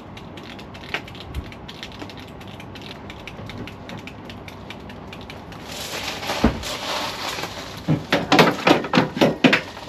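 Light ticking and tapping, then a hissing rush about six seconds in, and a quick run of loud knocks and clatter near the end.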